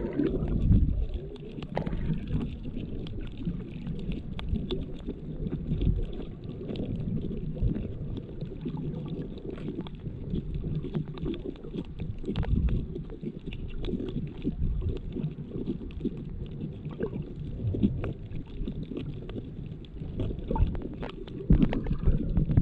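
Underwater sound through a bare GoPro Hero7's built-in microphone: a muffled, low rumbling of moving water with many short, sharp clicks scattered throughout.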